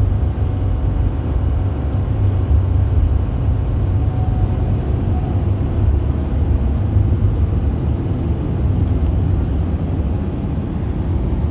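Steady low rumble of a bus's engine and road noise, heard from inside the cabin while the bus is under way.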